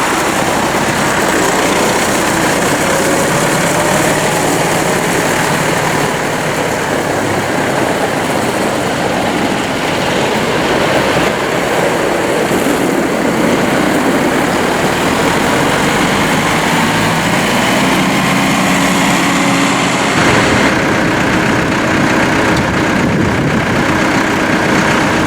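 Four-cylinder turbocharged Perkins diesel engine of a 2006 Massey Ferguson 596 tractor running steadily. Its pitch rises about 18 seconds in and holds higher from about 21 seconds.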